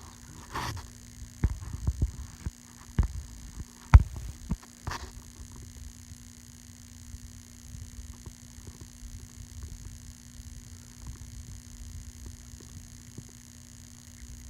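A handful of dull knocks and bumps in the first five seconds, the loudest about four seconds in, over a steady faint electrical hum that carries on alone afterwards.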